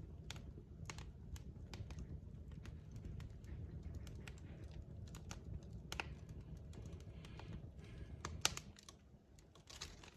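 Log fire crackling: irregular sharp pops and snaps over a steady low rumble of burning, with one louder pop about eight and a half seconds in.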